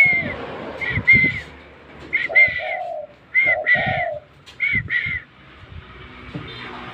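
Spotted dove (derkuku) cooing in short, repeated two-note phrases about once a second, falling quiet about five seconds in.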